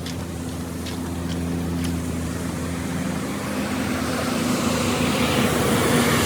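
A motor running steadily under a rushing noise that grows louder over the last few seconds.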